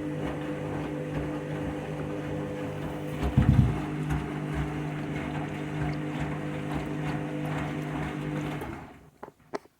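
Washing machine motor running with a steady hum as the drum turns, with one heavy low thump about three and a half seconds in. The running sound drops away about nine seconds in, followed by a few sharp clicks.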